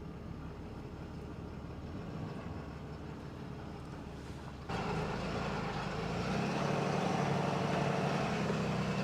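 Ram pickup's Cummins diesel engine running, heard from inside the cab, after stalling unexpectedly. About halfway through it suddenly gets louder and stays louder as the truck is driven forward.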